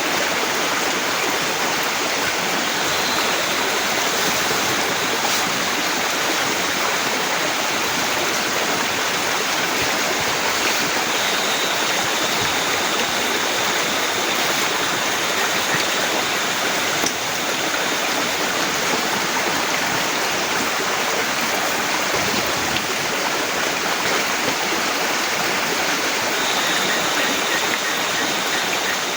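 Heavy rain falling, a dense steady hiss with no letup.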